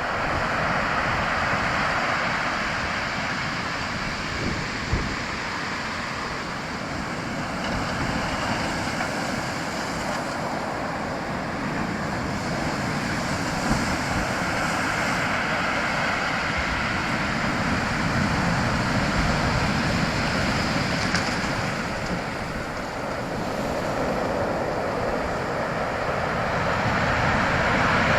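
Steady rushing water, swelling and easing a little in level.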